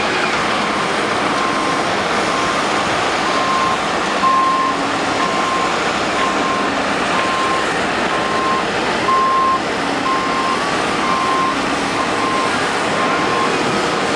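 A vehicle's reversing alarm beeping steadily, one tone about once a second, over the continuous noise of heavy diesel equipment working.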